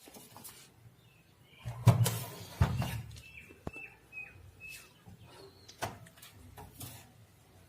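Scattered handling knocks and clicks from the amplifier boards and wiring being moved, the loudest about two seconds in, with a few short high bird chirps in the background around the middle.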